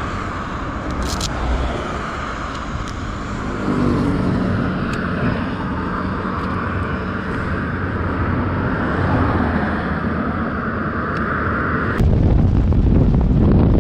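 Honda NC750X's parallel-twin engine running, its pitch rising about four seconds in. Near the end the sound changes abruptly to riding at speed, with heavy wind noise on the microphone.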